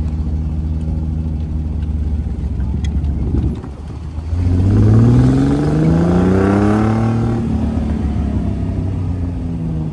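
1968 Triumph TR250's 2.5-litre straight-six running steadily at low revs, dropping away briefly about three and a half seconds in, then rising in pitch as the car accelerates for about three seconds before levelling off.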